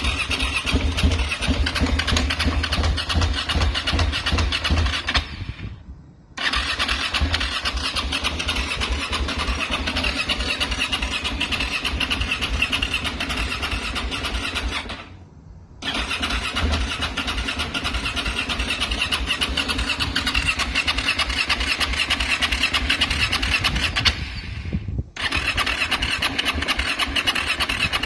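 KTM motorcycle engine on a cold start, running with a rapid, uneven low beat. Three times the sound fades away for about half a second and comes back abruptly.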